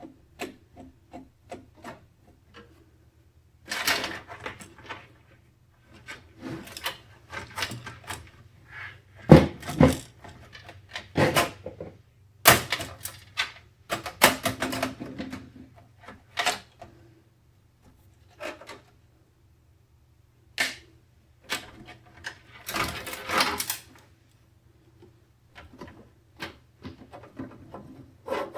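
Hands handling computer parts: irregular clicks, taps and rattles of plastic and metal, coming in clusters with quiet gaps between and a few sharper knocks near the middle, over a faint low hum.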